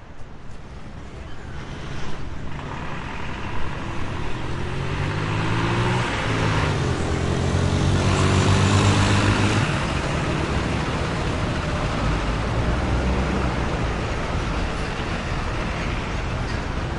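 City street traffic fading in, with a motor vehicle passing close about halfway through; its engine pitch shifts as it goes by. Afterwards a steady rumble of traffic continues.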